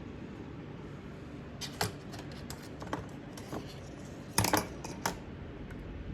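Small steel parts clicking and tapping against a Ford toploader transmission's case as the shift-rail detent is fitted. There are a few light, scattered clicks from about two seconds in, then a sharper cluster of clicks about four and a half seconds in.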